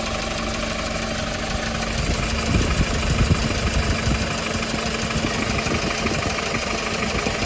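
Hyundai Porter II truck engine idling steadily, with uneven low bumps starting about two and a half seconds in.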